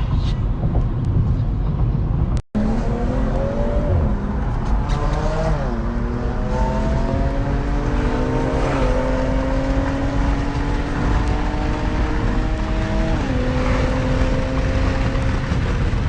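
A car accelerating hard through the gears: the engine note climbs, then drops sharply at each of about three upshifts. A low rumble before it cuts out abruptly for an instant about two and a half seconds in.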